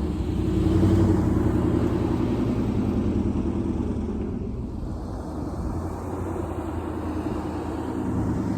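A motor vehicle's engine running with a steady low rumble, growing gradually quieter over the first half.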